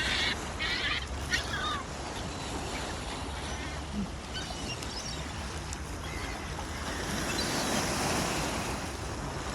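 Seagulls calling a few times in the first second and a half, over a steady wash of sea waves that swells near the end.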